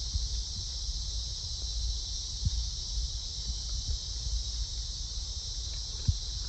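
Steady high-pitched chorus of night insects over a low rumble, with a soft thump about two and a half seconds in and another near the end.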